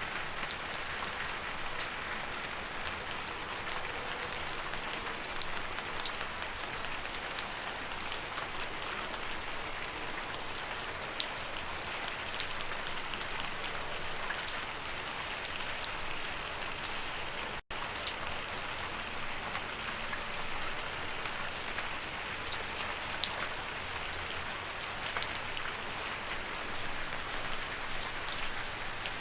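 Steady rain: an even hiss sprinkled with many sharp individual drop hits. It cuts out for an instant a little past halfway through.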